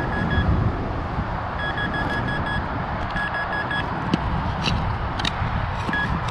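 Metal detector giving runs of short, same-pitched beeps, about six a second, as it sits over a buried metal target, with heavy wind noise on the microphone; a few sharp clicks from digging in the middle.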